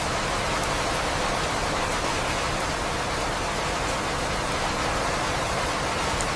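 Steady rain, an even hiss that holds level throughout, with a few faint drop ticks.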